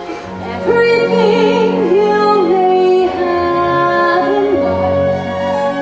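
A female voice singing a solo melody with vibrato over a sustained musical accompaniment, the voice coming in a little after the start.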